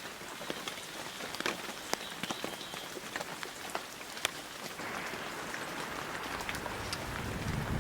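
Steady rain, with many sharp drops tapping close by. About five seconds in the hiss grows louder, and a low rumble comes in near the end.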